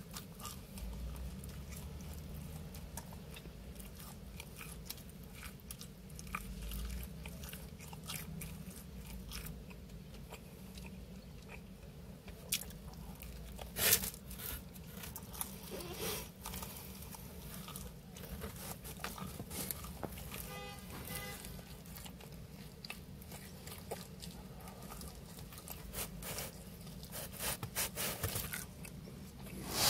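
Close-up chewing and biting of pizza crust: mouth clicks and crunches throughout, with a louder crunch about halfway and more near the end, over a low steady hum.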